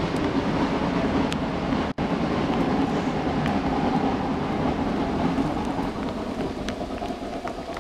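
Steam-hauled log train running by with a steady rumble that fades over the last couple of seconds as it moves away.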